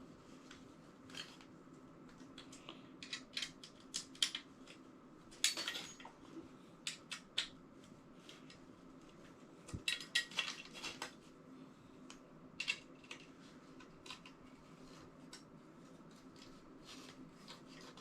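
Scattered clicks and clinks of small metal parts and tools being handled during hand assembly, coming in short clusters, over a faint steady hum.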